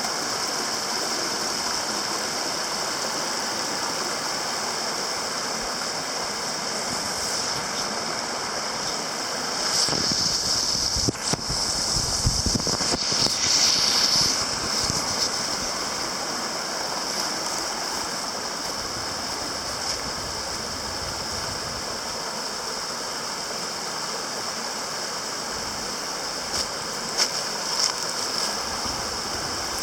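Steady rush of running water from a creek or small waterfall. It swells louder for a few seconds about ten seconds in, with a brief low rumble near the middle.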